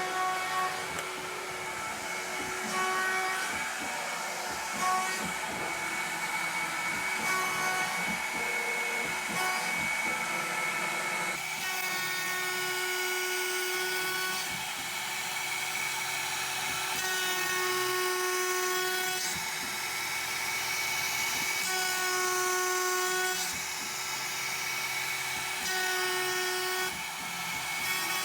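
CNC milling machine running with a steady high spindle whine, overlaid by pitched motor tones that switch on and off every couple of seconds as the machine moves.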